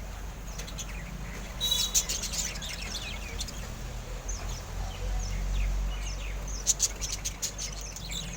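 Parrots chirping and calling in short, high bursts, with a louder call about two seconds in and a cluster of calls near the seven-second mark.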